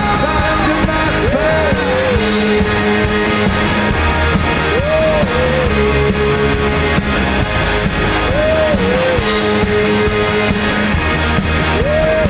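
Live rock band playing loud, with a lead line repeating the same short rising-and-falling phrase, then a held note, about every three and a half seconds over drums and bass.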